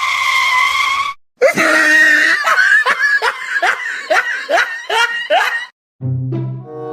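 Hearty laughter in a run of about nine loud, falling bursts, after a short drawn-out cry at the start; music begins near the end.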